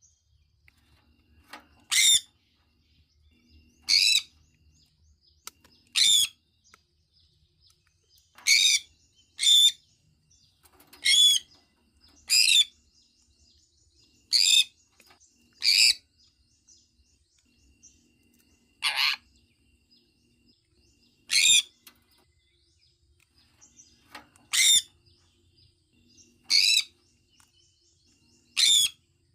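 Sun conure calling: a string of short, loud, high-pitched calls with a wavering pitch, about one every two seconds, some coming in quick pairs.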